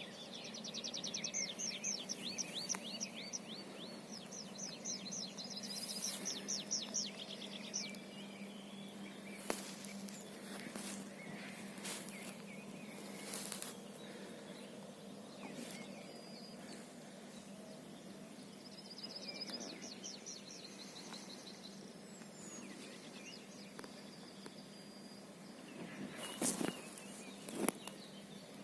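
Songbirds singing outdoors: fast trilled phrases of quick repeated notes, heard in the first several seconds and again briefly in the middle, over a steady low hum. A few sharp clicks or knocks break in, the loudest two near the end.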